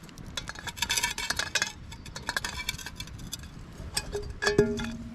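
A spoon clinking against metal camp cookware in quick stirring runs, then one sharper knock about four and a half seconds in that leaves the metal ringing briefly.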